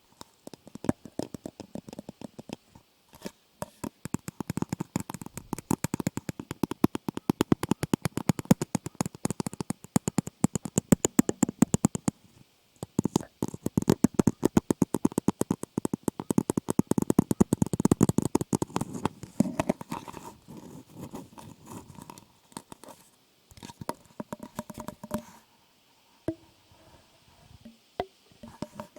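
Dense, rapid crackling and scratching right against the microphone, many clicks a second, with a brief pause about halfway and thinning out to sparser, quieter clicks toward the end.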